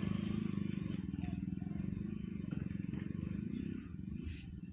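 Motorcycle engine running at low revs, its sound slowly fading.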